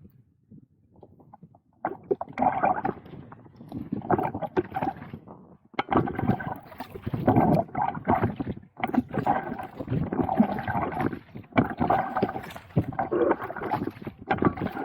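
Kayak paddling on a lake: water swishing and gurgling around the paddle and hull, coming and going with the strokes after a quiet first couple of seconds.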